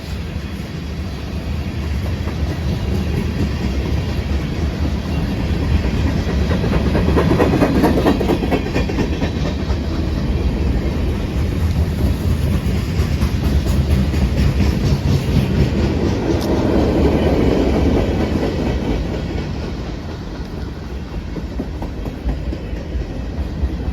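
Freight cars of a long CSX freight train rolling past, steel wheels clacking over the rail joints. The rumble swells twice, around 8 and 17 seconds in, and eases near the end.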